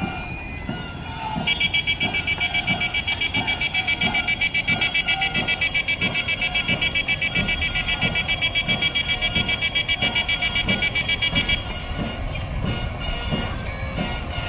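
A shrill, rapidly pulsing high tone, like an alarm or buzzer, sounds for about ten seconds. It starts a second or so in and stops abruptly near the end, over a background of lower regular knocks.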